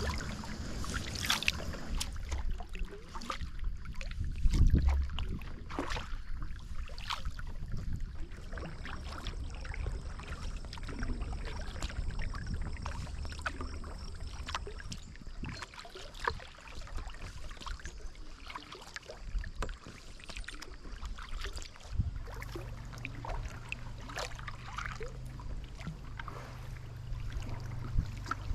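Kayak being paddled on a river: paddle blades dip and splash, with drips and small knocks scattered throughout, over a steady low rumble. There is one loud low thump about five seconds in.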